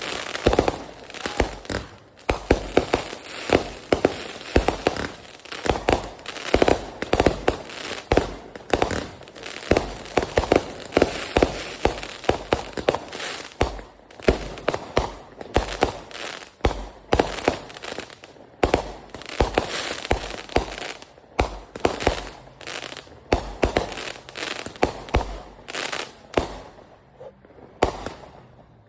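Fireworks going off: a dense, irregular run of sharp bangs and pops, several a second, thinning out near the end.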